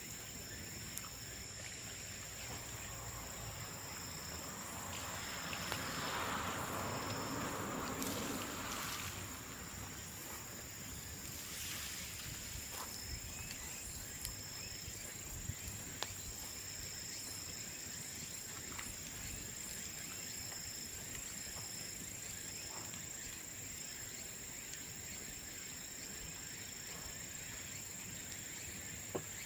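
A bamboo bonfire burning, with occasional sharp crackles, over a steady high-pitched chirring of insects. A swell of rushing noise rises and fades again about five to nine seconds in.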